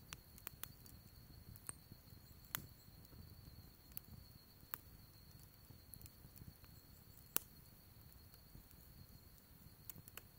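Wood fire burning quietly, crackling with scattered sharp pops at irregular intervals, the loudest a little past the middle.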